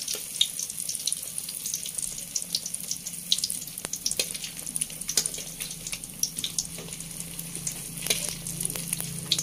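Battered eggplant slices frying in hot oil in a wok: a steady sizzle with frequent sharp crackles and pops.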